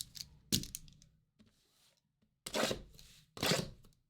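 Trading-card packaging and cards being handled: a few short rustling, scraping bursts, the loudest about half a second in and again in two clusters near the end.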